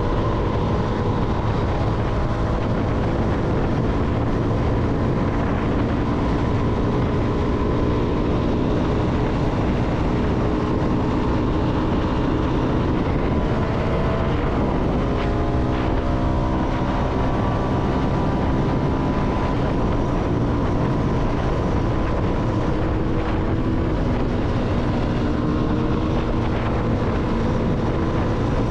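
CFMoto motorcycle engine running steadily under way, with a constant low rush beneath it. About halfway through, the engine note shifts in pitch as the revs change, then settles again.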